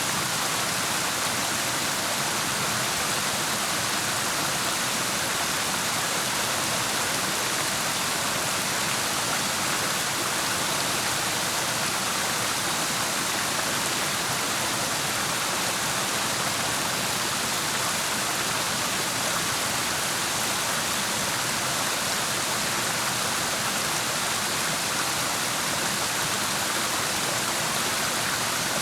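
Steady rush of clear mountain water tumbling over rocks, an even hiss that stays the same throughout.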